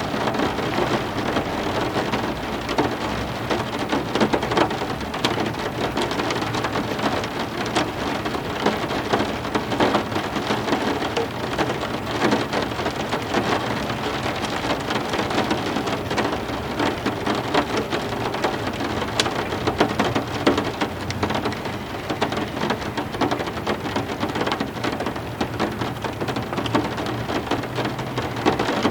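Heavy rain falling steadily, a dense hiss with many individual drops ticking on hard surfaces.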